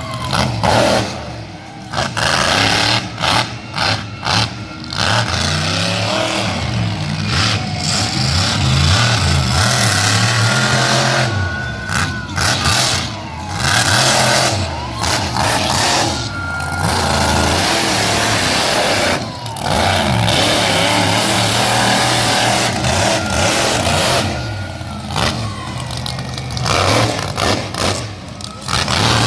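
Monster truck engine revving hard, its pitch rising and falling again and again, with the sound cutting in and out briefly many times.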